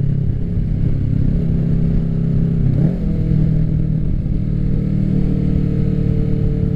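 Kawasaki Ninja 650's parallel-twin engine running through an aftermarket M4 full exhaust at a steady cruise, its pitch dipping and rising briefly about three seconds in. There is low wind rumble on the helmet microphone.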